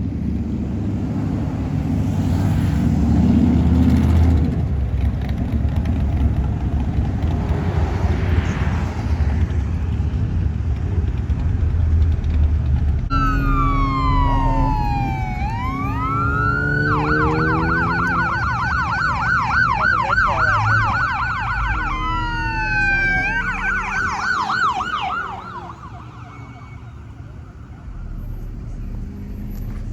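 Car engines rumbling as traffic passes. About halfway through, an emergency-vehicle siren starts with a slow falling and rising wail, switches to a fast yelp, then does another wail and yelp before stopping a few seconds before the end.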